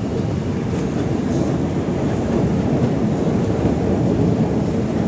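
R142 New York subway car running along the track, heard from inside the car: a steady rumble of wheels and running gear, with a faint steady high whine above it.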